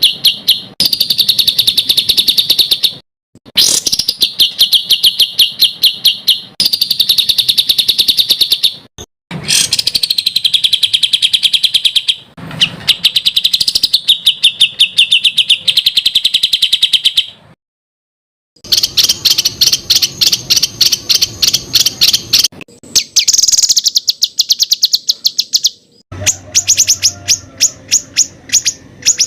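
Songbird singing 'tembakan' song: long strings of sharp notes repeated very fast, about ten a second. The notes come in phrases of a few seconds with short breaks between them, and the later phrases sit higher in pitch.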